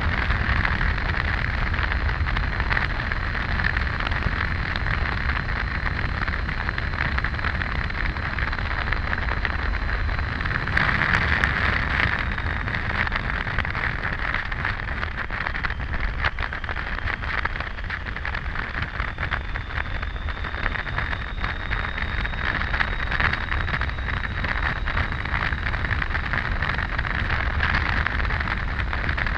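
Wind rushing over the microphone and road noise from a Triumph Tiger 800 motorcycle riding at highway speed: a steady, loud rush with a deep rumble underneath and a faint high whine.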